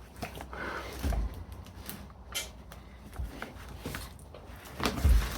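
Scattered knocks and clicks of parts and tools being handled while an old half-inch electric drill is taken apart; the loudest knock comes about five seconds in, another about a second in.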